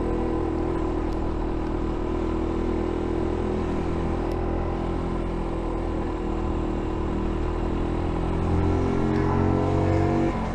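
F.B Mondial Pagani 300 motorcycle's single-cylinder engine running steadily under way, the revs climbing in the last couple of seconds, then dropping sharply at a gear change near the end.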